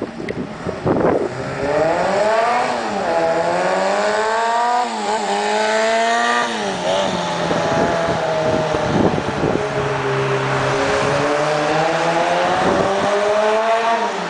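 A small custom-built motorcycle's engine revving as it rides around, its note rising and falling several times with the throttle and gear changes, then climbing steadily near the end.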